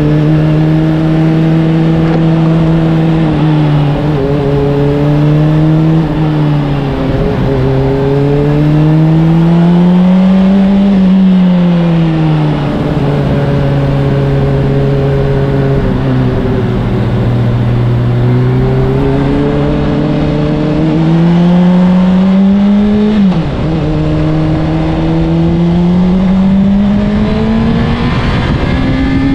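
Honda CBR600RR's inline-four engine running through an Akrapovic exhaust while riding, holding a steady note for stretches and rising and falling in pitch several times as the throttle is opened and eased off. About two-thirds of the way through the revs climb, drop sharply, then build again near the end.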